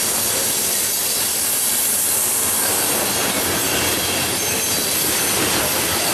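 Coal train cars rolling past, a steady noise of steel wheels on the rails with a strong high hiss.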